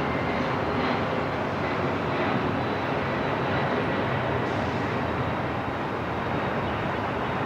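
Steady airport ambience: an even, unbroken rushing noise like distant jet engines, with a faint thin high whine held through it.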